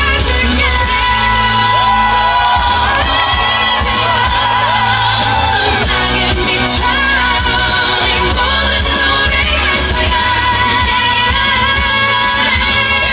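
A female pop singer singing live over a band backing track, holding long notes with vibrato.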